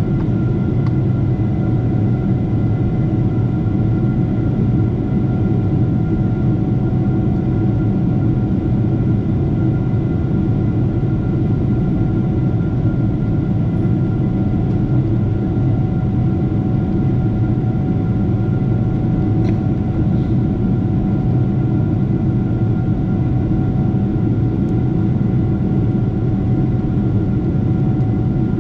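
Steady low drone of a Boeing 747-8's engines and rushing air, unchanging throughout, with a few faint steady whine tones above it.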